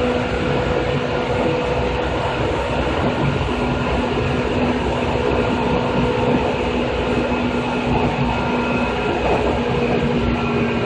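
Running sound of a Japanese 2000 series train: a steady rumble of wheels on rail with an even hum held at one pitch as the train cruises.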